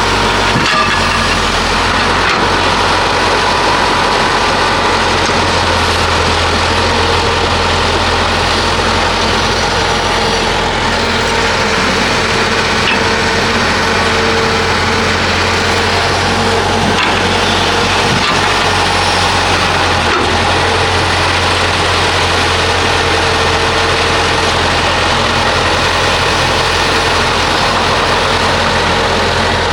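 Diesel engine of heavy construction machinery running steadily, with a few faint knocks here and there.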